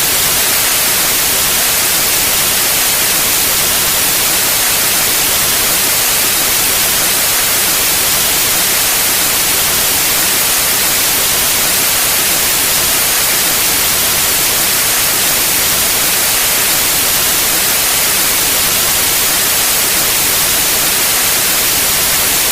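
Steady white noise: an even, loud hiss spread across all pitches, strongest in the treble, unchanging throughout.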